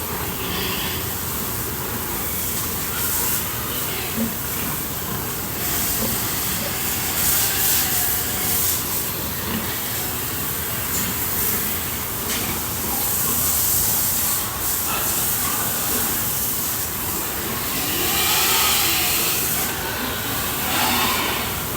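Steady hiss of water spraying, rising and falling a little as the spray moves.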